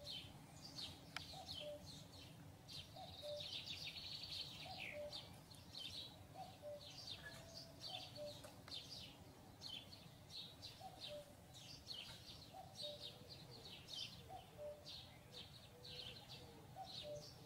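Faint outdoor birdsong: many short, high chirps throughout, with lower short notes at intervals.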